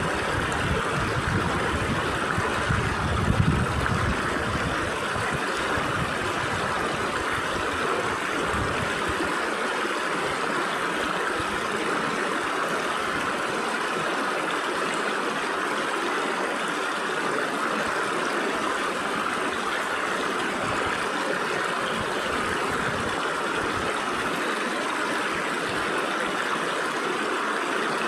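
Stream water flowing through gaps between rocks, a steady rushing with energy in the middle range. A brief low rumble about three seconds in.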